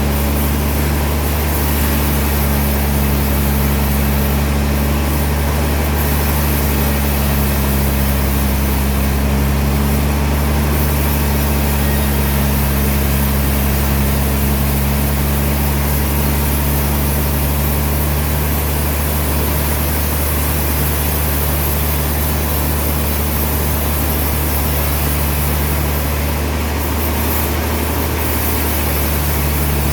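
Sawmill machinery running steadily: a loud, continuous low drone that dips slightly near the end.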